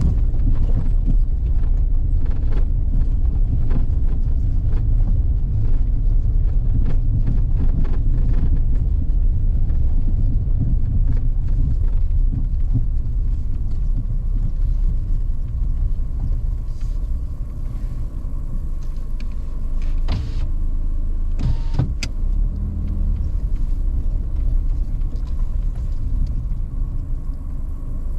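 Car driving, a steady low rumble of engine and road noise with scattered light clicks and rattles, and two sharper knocks about two-thirds of the way through.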